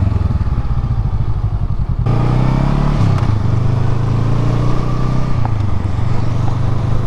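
Motorcycle engine running under way at a steady speed, its low exhaust note changing abruptly about two seconds in and then settling again.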